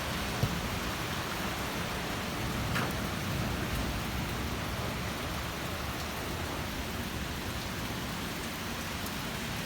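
Strong wind: a steady rushing hiss with a low, uneven rumble of gusts buffeting the microphone, and a brief tick about half a second in.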